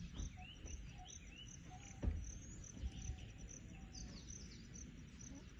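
Outdoor bush ambience: birds calling in short rising chirps over a steady high insect drone, with a low rumble beneath and a single thump about two seconds in.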